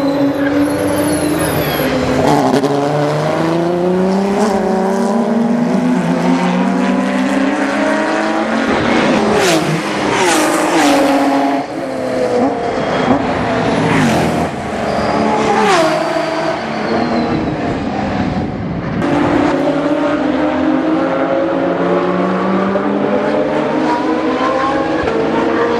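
GT3 race car engines running hard, pitch climbing and dropping with each gear change. About ten to sixteen seconds in there is a run of sharp cracks with falling pitch, then the engines climb through the gears again.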